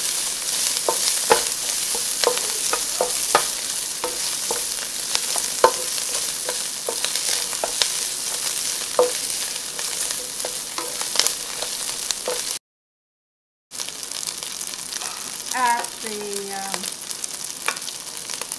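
Diced Chinese sausage sizzling in oil in a nonstick wok, stirred with a spatula that clicks and scrapes against the pan. The sound drops out completely for about a second around two-thirds through.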